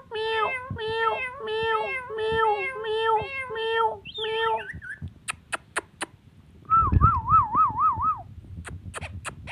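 Ringneck parrot giving a rapid run of repeated pitched call notes, about two a second, for the first four seconds, PANN hearing them as cat-like meowing. Then come a few sharp clicks and, about seven seconds in, a short wavering whistle.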